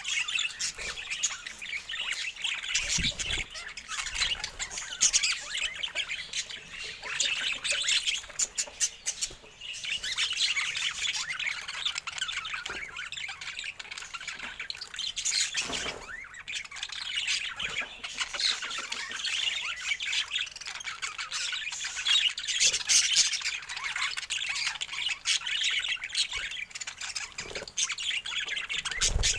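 Budgerigars chattering and squawking without a break, with a few short clicks in between.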